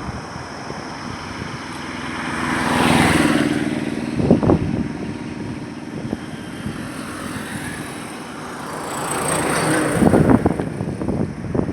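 Highway traffic noise with two vehicles passing close. The first swells and fades about three seconds in with a clear engine hum and tyre noise. The second passes near the end, with short sharp knocks over it.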